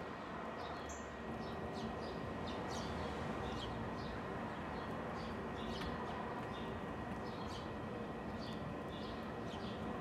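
Small birds chirping: short high chirps, several a second, keep coming over a steady low outdoor rumble.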